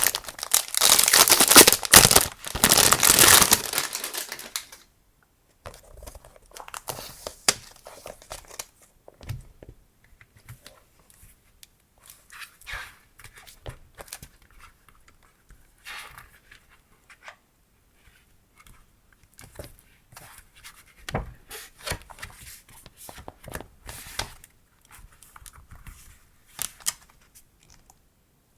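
Packaging torn open with a long ripping sound for the first four seconds or so. This is followed by intermittent crinkling, rustling and small taps as the items are handled.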